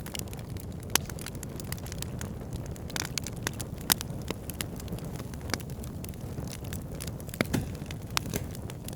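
Wood campfire burning: irregular crackles and sharp pops over a steady low rumble of the flames, with a few louder pops about a second, four seconds and seven and a half seconds in.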